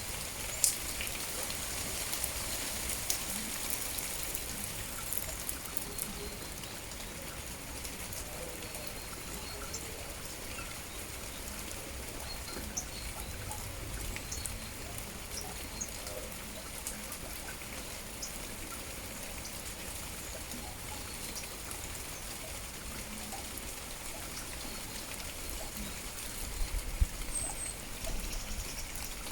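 Steady rain falling, with many small drops ticking and a few louder single drips, one about a second in and several near the end.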